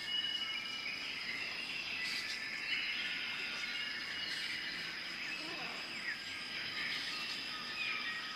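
Outdoor nature ambience: a steady high insect trill with many short bird chirps and whistles scattered over it.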